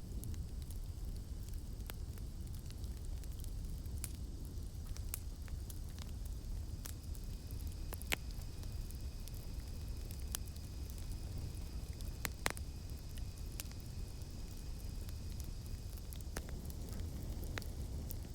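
Campfire burning with a steady low rumble and scattered sharp crackles and pops of the burning wood, two of them louder about 8 and 12 seconds in. A faint steady high drone of cicadas sits behind it.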